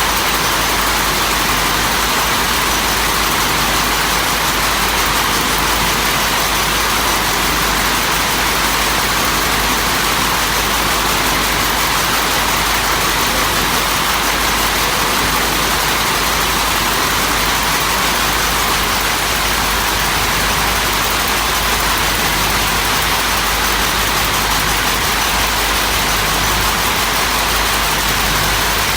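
Steady, unchanging machinery noise: an even hiss with a low rumble beneath it.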